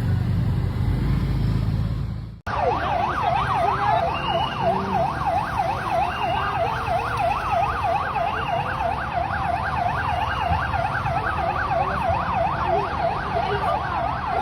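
Low traffic and engine rumble, cut off about two seconds in. It gives way to an emergency vehicle siren in fast yelp mode, sweeping up and down about three times a second. A second, slower siren rises and falls behind it.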